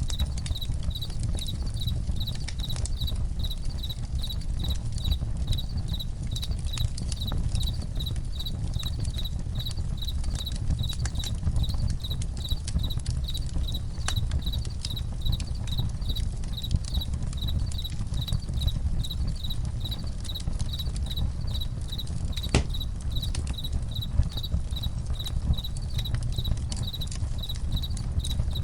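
Crickets chirping in a steady, even rhythm over a crackling campfire, its low rumble dotted with sharp pops, one of them louder about three-quarters of the way through.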